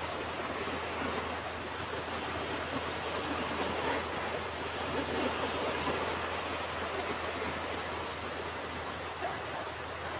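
Ocean surf washing onto a beach: a steady rush of waves that swells slightly about four to six seconds in.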